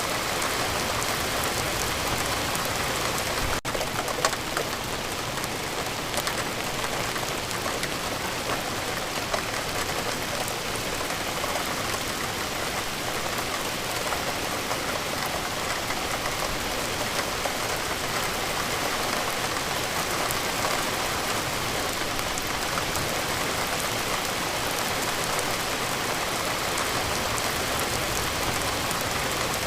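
Steady rain falling on a surface: an even hiss with scattered, slightly louder drop impacts, broken by a momentary dropout about three and a half seconds in.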